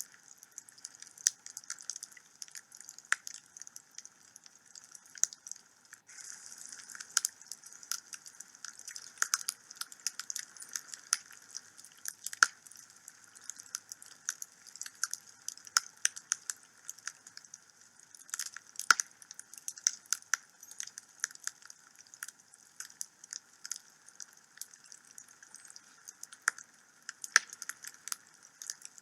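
Wood fire burning in a home fireplace, crackling with irregular sharp pops over a soft steady hiss that grows slightly about six seconds in.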